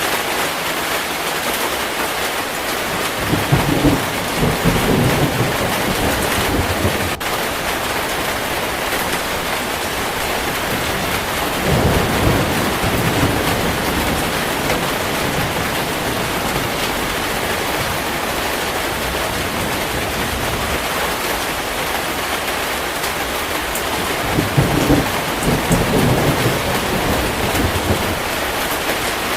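Steady heavy rain with thunder rumbling three times: about three seconds in, near the middle and towards the end.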